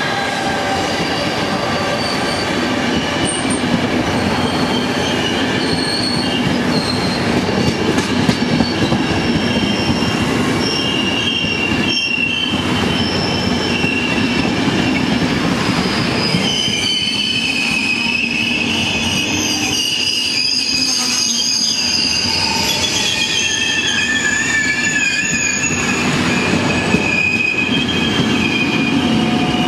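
A long train of passenger coaches rolls past at close range with a steady rumble of wheels on rail. Several high, wavering wheel squeals sound throughout and grow stronger in the second half.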